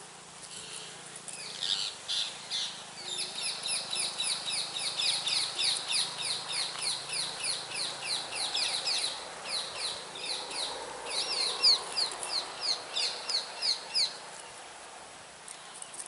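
A bird calling in a long, rapid series of short, high, downward-slurred notes, about three a second, getting louder toward the end and then stopping.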